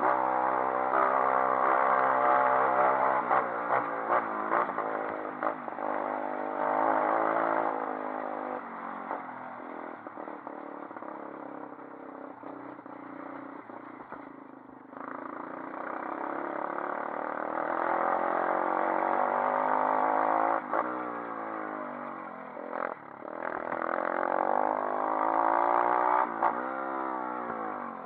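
A 140cc pit bike's single-cylinder four-stroke engine being ridden, its pitch rising and falling as the throttle opens and closes, with scattered knocks and clatter. It goes quieter for a few seconds mid-way, then revs up again with sweeping rises and falls near the end.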